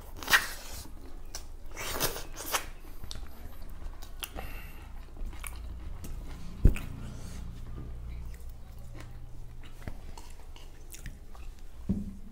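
Close-up chewing and mouth sounds of people eating rice by hand, with fingers working the food against steel plates. Small clicks run throughout, and a few sharp knocks stand out, the loudest about halfway through.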